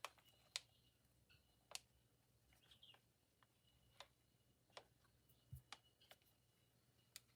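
Near silence with scattered light clicks and taps, about eight in all, from small craft pieces (slides and paper pockets) being handled on the work surface.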